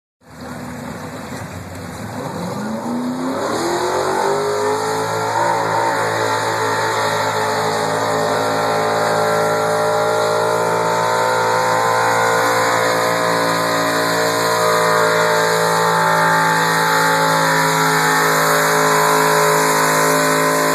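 A 4x4 pulling truck's engine revs up over the first few seconds, then holds at high, steady revs under load as the truck pulls the sled.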